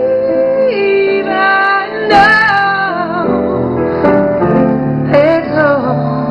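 A woman singing long, wavering held notes to piano accompaniment. Her voice rises to a higher note about two seconds in.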